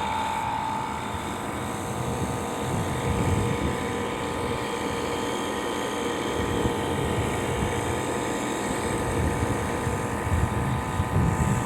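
Comfort Star air conditioner running: a steady whir of fan and motor with a few held tones.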